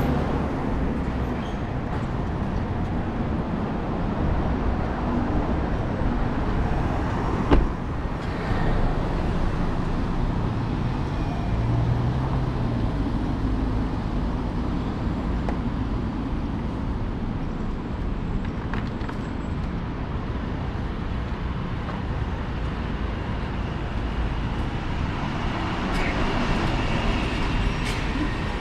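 Street traffic: a steady mix of passing motor vehicles, with one sharp knock about seven and a half seconds in.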